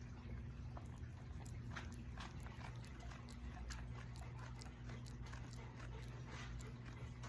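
Faint small sounds of a dog shifting about: scattered soft clicks and rustles over a steady low hum.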